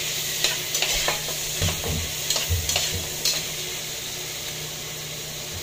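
Boiled chicken and pork pieces sizzling as they are scraped off a plate into a pot of sautéing garlic, onion and ginger, with a steady frying hiss. A metal slotted spatula clicks and scrapes against the plate and pot several times, with a few dull knocks, during the first three seconds or so.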